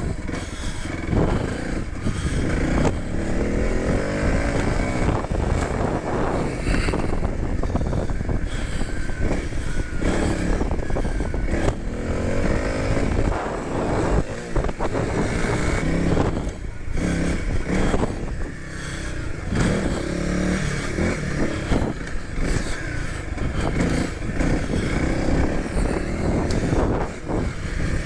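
Honda CRF300L dual-sport motorcycle's single-cylinder engine heard from on board while riding a dirt track, revving up and dropping back repeatedly as it accelerates and slows through the corners.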